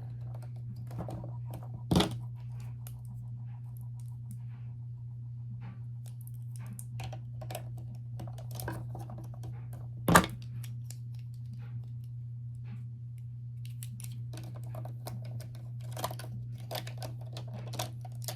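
Small plastic toy pieces being handled and fitted together, with scattered light clicks and taps and two louder knocks, one about two seconds in and one about ten seconds in.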